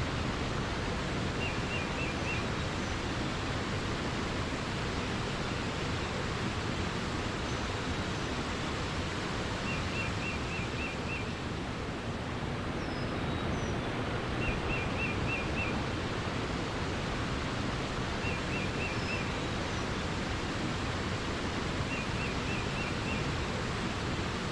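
Steady rushing water, with a songbird repeating a short run of four to six quick high notes about every four seconds, five times, and a few faint higher chirps.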